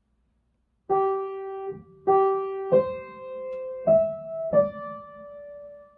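Piano playing a slow single-note melody, G, G, C, E, D, starting about a second in, with the last note held and left to ring.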